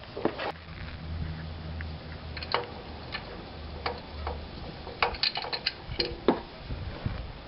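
Irregular clicks and light knocks of hand tools and parts being handled, most thickly about two thirds of the way in, over a low steady hum in the first part.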